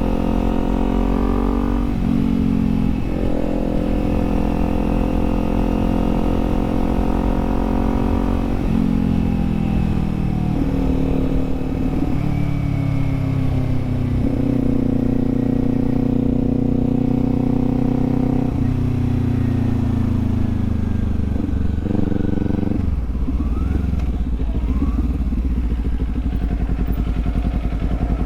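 Kawasaki Z400 motorcycle's 399 cc parallel-twin engine under way. The revs climb in the first couple of seconds, break at a gear change and hold. They then fall back in several steps as the bike slows, settling to a low, steady beat for the last few seconds.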